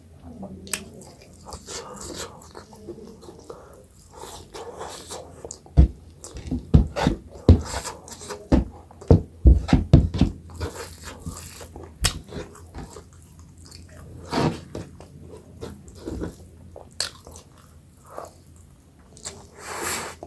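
Close-up eating sounds: a person chewing millet dhido and chicken curry, with a quick run of sharp mouth smacks and clicks in the middle and scattered ones after.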